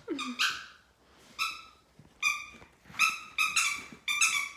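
Puppy chewing a squeaky dog toy: a series of short squeaks of the same pitch, about every half second, from about a second in.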